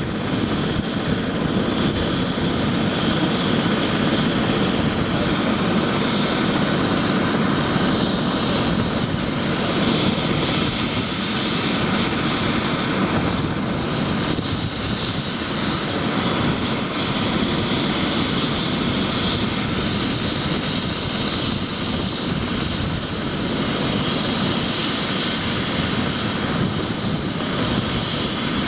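Bell 407 helicopter's single turboshaft engine and rotors running steadily, with a thin high whistle held over the rotor noise.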